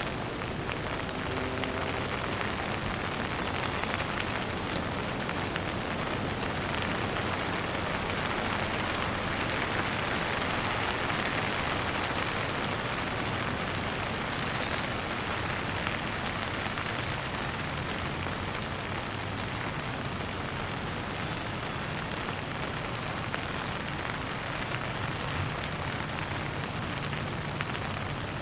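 Steady rain falling and pattering on surfaces. A bird chirps briefly in a short run of high notes about halfway through.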